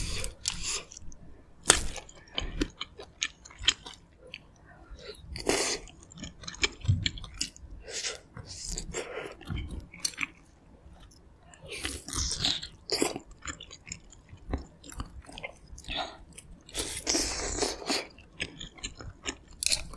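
Close-miked chewing of pork-bone meat and aged kimchi from gamjatang, in irregular bites with sharp clicks and a few longer noisy stretches.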